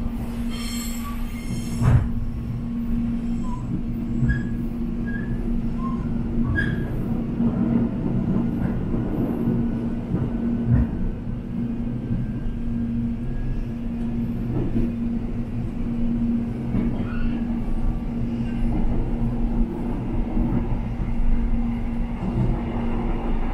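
Airport rail link electric train running with a steady low rumble and a steady hum, with a few short knocks.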